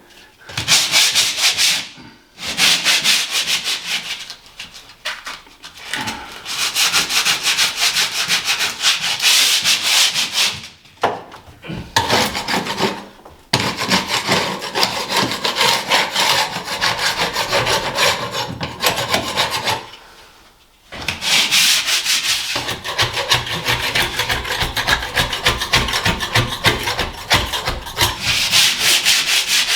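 60-grit sandpaper rubbed by hand across a flaky painted ceiling in fast back-and-forth strokes, in runs broken by short pauses.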